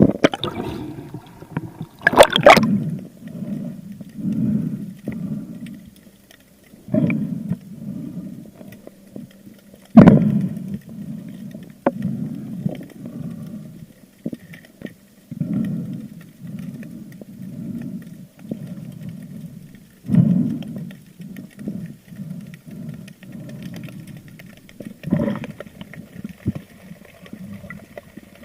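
Muffled underwater water noise from a diver moving through the sea, swelling and fading every second or two. A few sharp knocks stand out, the loudest about ten seconds in.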